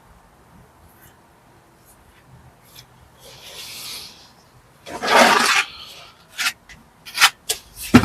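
Pointing trowel scraping mortar against brickwork: faint scratching, then one loud scrape about five seconds in, followed by several short, sharp scrapes and taps near the end.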